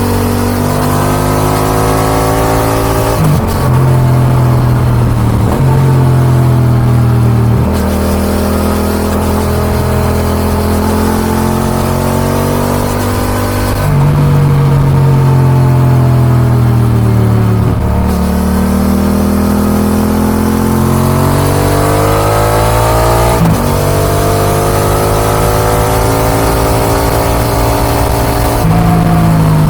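Yamaha XSR 700's CP2 parallel-twin engine through an Akrapovic dual exhaust, heard onboard under way: the engine note climbs as it accelerates and drops sharply several times as it changes gear, with a stretch of falling pitch around the middle where it slows and then pulls again.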